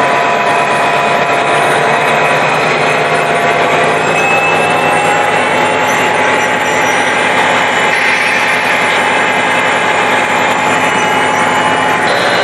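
Diesel locomotive engine running steadily, with a few faint steady whining tones over the engine noise.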